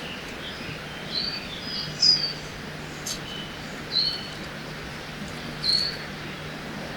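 Forest ambience with birds chirping: short high whistled notes repeating about once a second, over a steady hiss of rushing river water.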